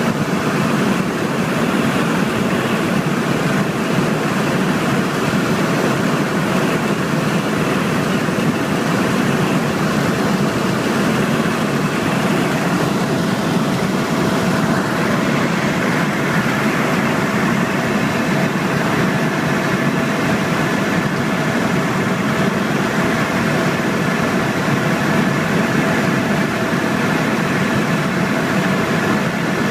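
Steady drone of a helicopter in flight, with a faint constant tone running through it and a second, higher tone joining about halfway through.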